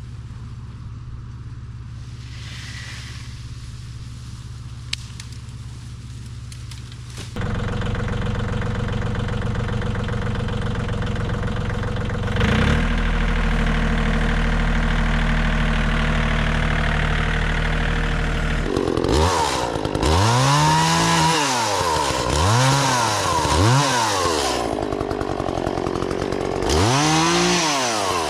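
An engine running steadily, louder from about seven seconds in; then, from about two-thirds of the way through, an Echo CS-400 two-stroke chainsaw revving up and back down five times.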